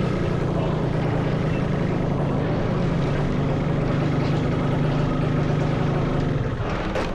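Motorcycle engine running steadily while riding, with a low hum and road and wind noise. The engine sound drops away near the end.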